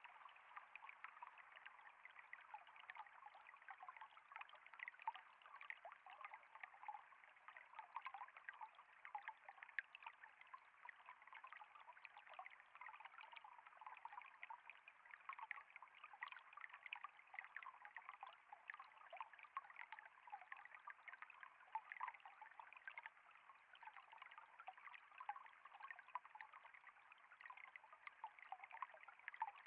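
Water trickling and flowing steadily, a constant babble of many small splashes.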